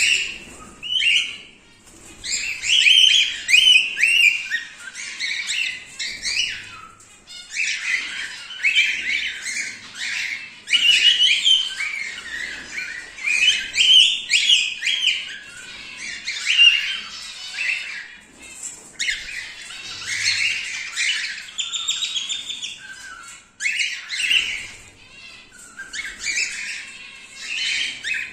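Male cockatiel chattering: a near-continuous run of short, high chirps and squawks, broken by brief pauses.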